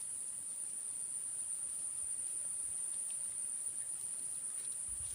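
Steady, unbroken high-pitched insect buzz, with a few low thuds starting near the end.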